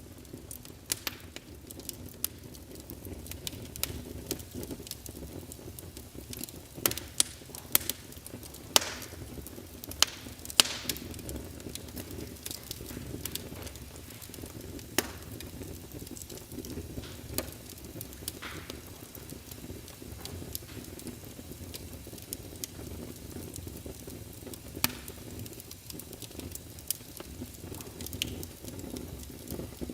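Wood fire crackling in a fireplace: a low steady rumble with irregular sharp pops, the loudest few bunched together about a third of the way in.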